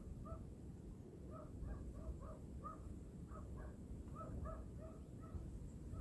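Low wind rumble with a flock of birds calling over it: short, harsh, repeated calls, about three a second, overlapping one another.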